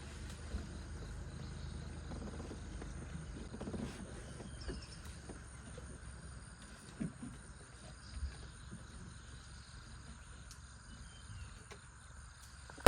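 Rainforest ambience: a faint, steady drone of insects with a few brief bird chirps and some soft knocks.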